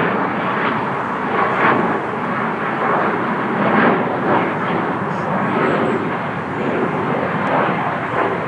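Airliner flying low overhead: a loud, steady rushing noise of its engines.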